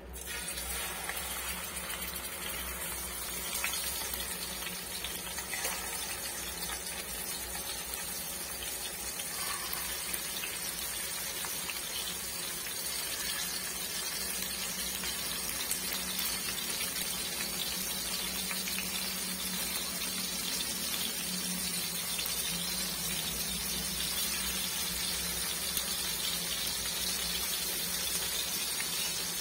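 Pieces of catfish sizzling steadily as they deep-fry in hot oil in a small pan; the sizzle starts suddenly as the first piece goes in.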